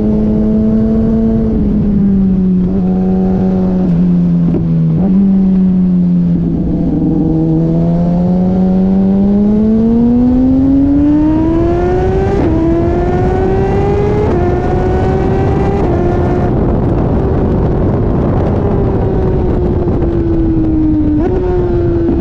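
Motorcycle engine heard on board while riding laps: the engine note sags, then climbs steadily under acceleration. It breaks into sudden steps a few times as gears are changed, over a constant rush of wind.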